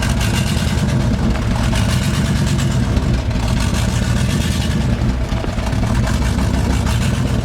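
Pickup truck's engine running steadily at low revs as the truck moves slowly, with a steady rushing noise over the engine's rumble.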